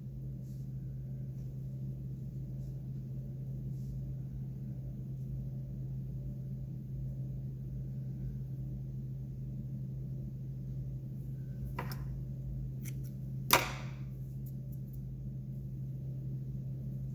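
A steady low electrical hum, with two short sharp clicks near the end, the second louder.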